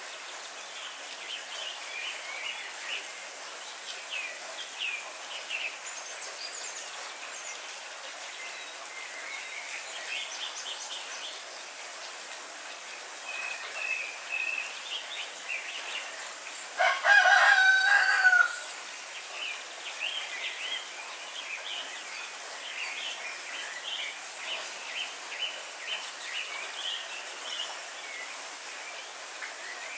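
Steady rain falling on leafy trees, with small birds chirping throughout. About two-thirds of the way through, a rooster crows once, the loudest sound here.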